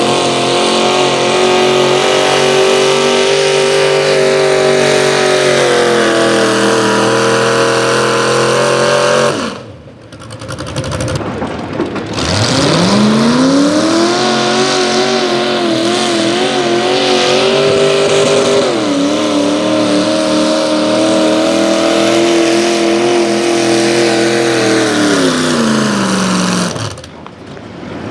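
A pulling vehicle's engine at full throttle, dragging a weight sled; its pitch sags as the sled's load builds and then it cuts off suddenly. A second run follows: the engine revs up, holds high, sags again near the end and cuts off.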